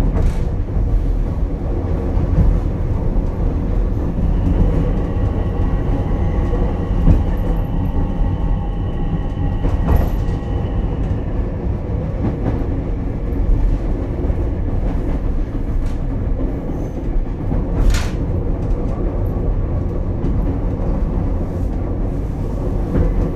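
Ichibata Electric Railway 7000-series railcar running between stations, heard from inside the car: a steady rumble of wheels on rail, with a whine of several steady tones that sets in a few seconds in and fades after about twelve seconds, and two sharp clicks.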